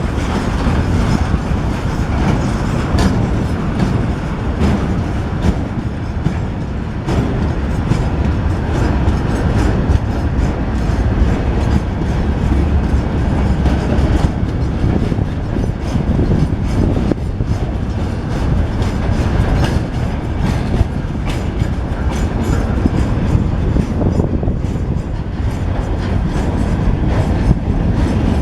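Train rolling past close by, its wagon wheels clattering steadily over the rail joints under a continuous rumble.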